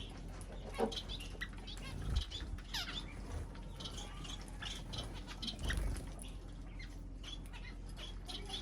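Small cage birds chirping with many short high calls and clicks, with wings flapping and a couple of soft low thumps about two and six seconds in.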